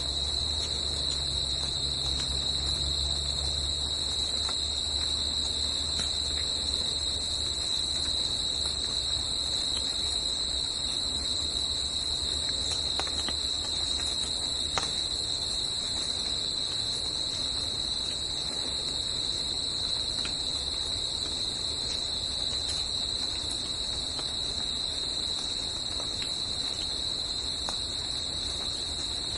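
Steady chorus of singing insects in a forest: a continuous, even high-pitched trill that holds without a break. Underneath runs a low rumble that eases off after the first several seconds.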